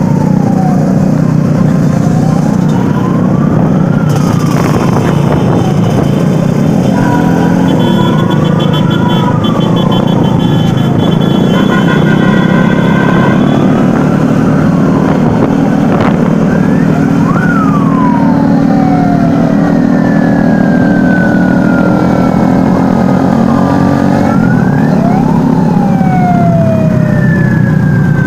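Sirens wailing over the steady low drone of vehicle engines in a moving convoy. In the first half a siren sweeps slowly up and down in pitch; from about halfway several sirens overlap in long falling wails.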